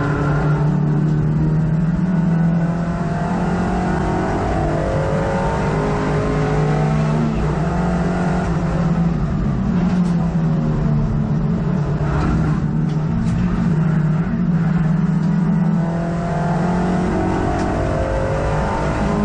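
Hot hatch race car's engine heard from inside the cabin, running hard, its revs climbing and dropping again and again through gear changes and braking.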